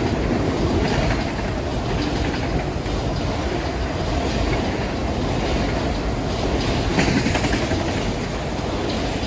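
Autorack freight cars rolling past close by: a steady rumble of steel wheels on rail, with occasional sharp clicks.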